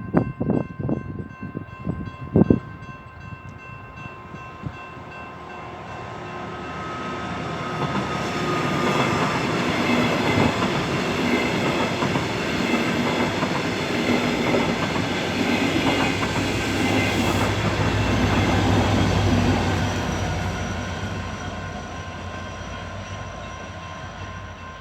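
Level-crossing warning bells ringing steadily while a passenger train approaches and passes. The train's rumble builds from about six seconds in, is loudest through the middle, and fades near the end. A few sharp knocks come in the first couple of seconds.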